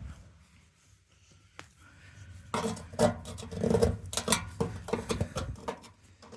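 Metal hand tools clinking and clattering as they are handled, a dense run of clicks and ringing knocks starting about two and a half seconds in, with a few more sharp clicks near the end.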